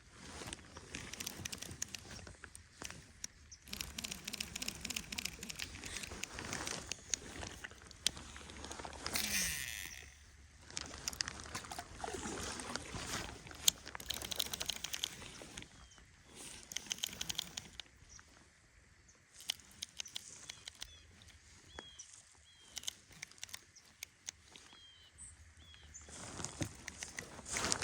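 Rain pattering in irregular ticks over a low wind noise, with a bird giving a series of short chirps in the second half.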